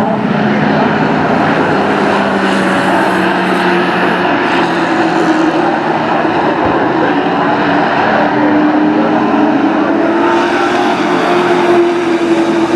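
Several racing sport-truck engines running together on a short oval track, a loud steady drone of overlapping engine notes whose pitches drift slowly up and down.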